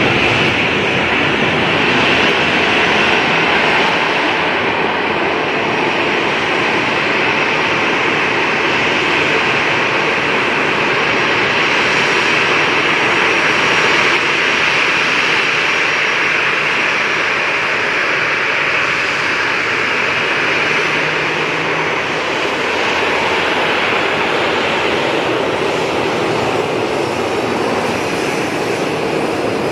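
Jet airliner engines running with a steady, loud rushing noise and a faint high whine in the middle.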